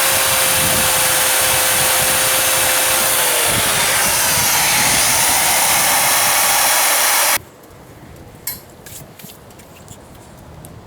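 Power tool grinding and scrubbing on the engine to clean it up. Its running note drops about three and a half seconds in as it bears down. It cuts off abruptly about seven seconds in, leaving only a few faint clicks of handling.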